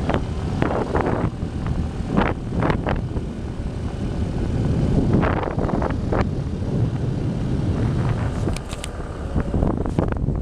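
Motorcycle engine running steadily while riding, with wind buffeting the microphone in a few short gusts.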